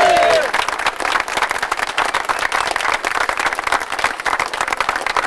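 Crowd applauding, a dense, even patter of many hands clapping. A held pitched call whose pitch falls away dies out in the first half-second.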